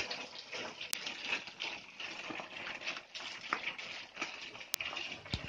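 Food frying in a wok over a wood fire: a faint steady sizzle, with a few sharp clicks about a second in and near the end.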